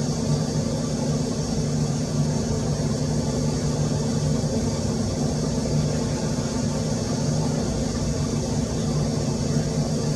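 A steady low machine hum, running evenly without change.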